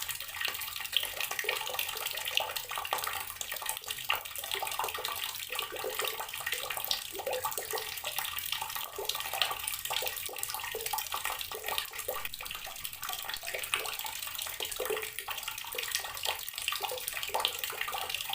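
Garden water tap running steadily, its stream splashing without a break.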